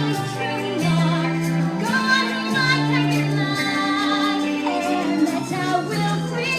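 Female vocals singing a show tune over instrumental accompaniment with held low notes.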